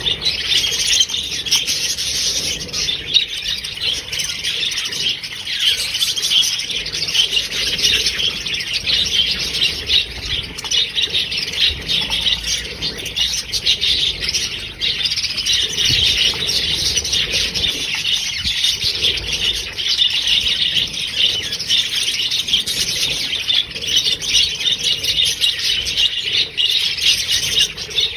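A flock of green parrots squawking and chattering, a dense unbroken stream of shrill calls from many birds at once.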